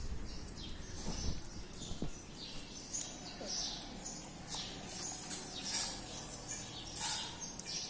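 Small birds chirping: many short, high calls scattered throughout.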